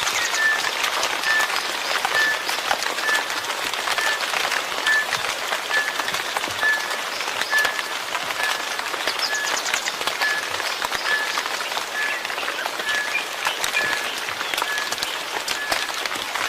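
Steady rain, with many separate drops hitting close by. Over it, a short high chirp repeats evenly about twice a second.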